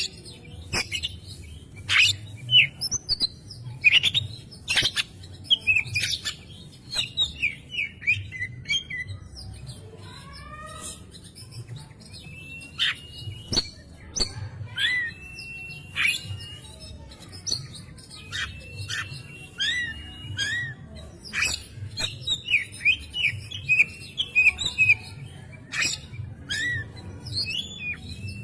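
Oriental magpie-robin (kacer) singing a long, varied song: sharp, loud whistled notes mixed with quick chattering phrases and some held whistles, over a faint steady low hum.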